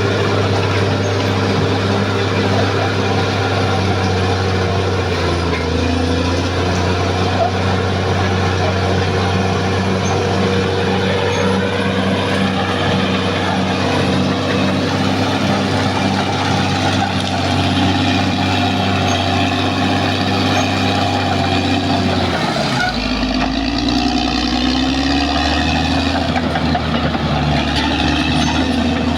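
Caterpillar D6R XL bulldozer's diesel engine running steadily. About three-quarters of the way through, its note drops lower and then rises and falls.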